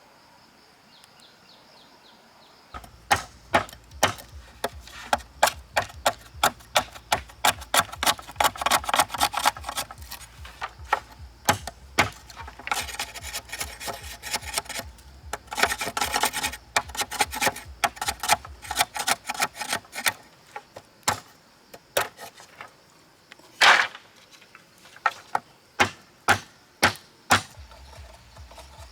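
Hand tools working wood or bamboo: a long run of sharp, repeated knocks, about two to three a second, with scraping between them. Late on they thin out to a few single, louder knocks.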